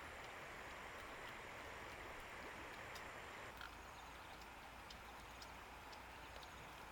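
Faint, steady outdoor background hiss with a few scattered small ticks.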